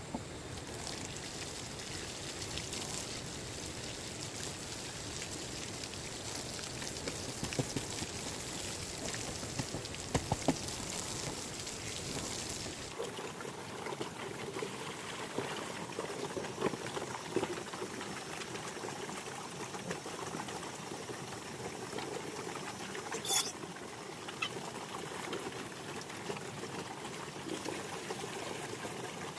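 Water trickling and pouring steadily, with a few short knocks; the sound changes character about halfway through.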